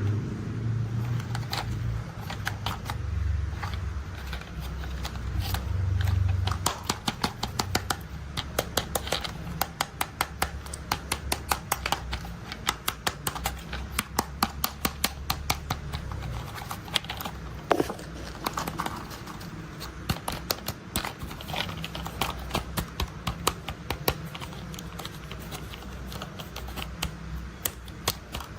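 Plastic toy construction vehicles being handled, with rapid sharp clicking and rattling, several clicks a second, over a low hum that fades after about six seconds.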